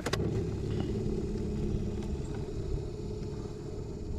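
Electric trolling motor running, a steady low hum.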